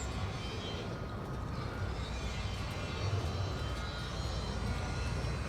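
Steady low rumble of engine noise, without a clear start or stop.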